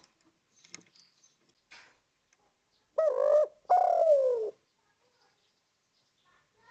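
Spotted dove cooing: two coos about three seconds in, a short one and then a longer one that falls in pitch.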